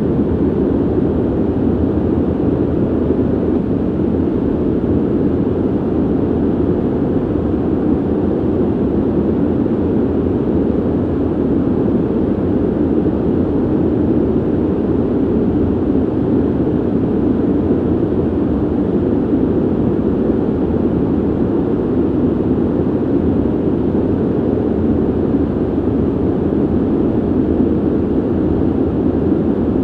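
Steady ventilation noise: a constant low rush of moving air, deepest in tone and unchanging throughout.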